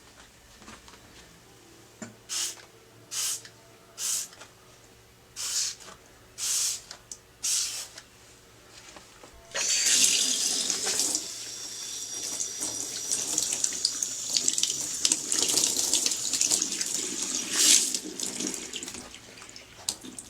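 Tap water running: a few short spurts, then a steady stream from about halfway through, rinsing a chainsaw's air filter that has been washed with detergent.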